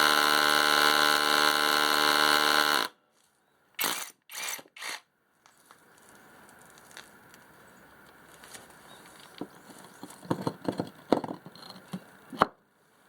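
Abeden BL21RH cordless hammer drill running steadily, then cutting off abruptly about three seconds in. A few short bursts follow, then scattered clicks and rattles of the tool being handled, ending in a sharp click.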